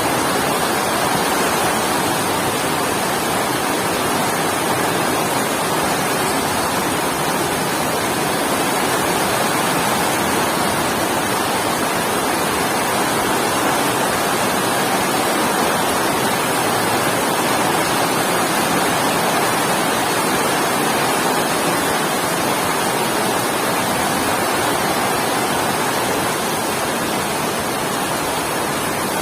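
Heavy rain falling steadily, a dense, even hiss with no thunderclaps or changes.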